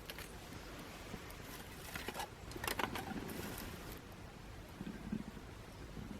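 A small twig fire crackling in a homemade aluminium fire stand, with a cluster of sharp snaps about halfway in and fainter scattered ticks, over a steady low rumble.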